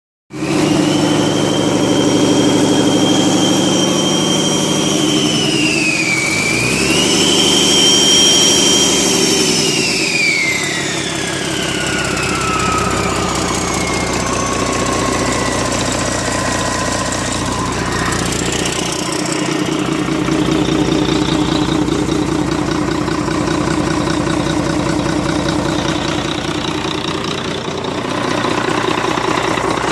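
Volvo D9 inline-six diesel engine of a wheel loader running, with a high whine over it that dips briefly about six seconds in, then drops in pitch and fades away between about ten and eighteen seconds.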